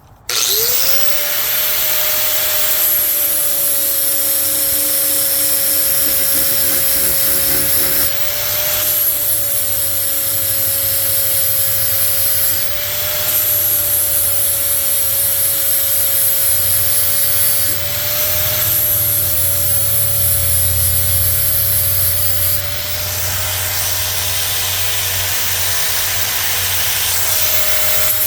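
Electric angle grinder spinning up and running at full speed while its abrasive wheel grinds a steel mower blade's edge, making a bright, hissing grind over a steady motor whine. The sound dips briefly and the pitch wobbles about every four to five seconds as the grinder is lifted and set back on the edge.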